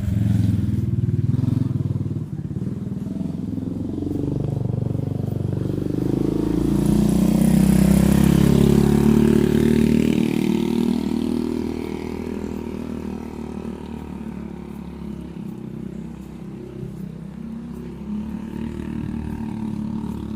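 Motorcycle engines running past; the nearest and loudest comes about eight seconds in, then fades away.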